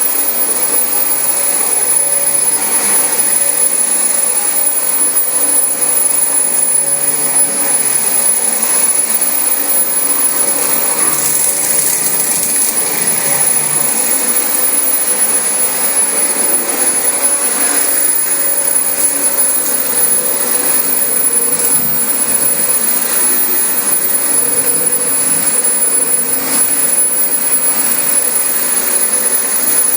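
Dyson DC25 upright vacuum cleaner running steadily on carpet, its motor giving a continuous rushing noise with a high whine.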